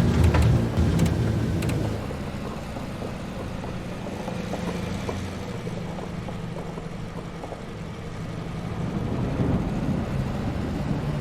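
Douglas DC-3's piston engines running with a steady low drone, with a few sharp rattling clicks at first; the engine sound drops about two seconds in and swells again near the end.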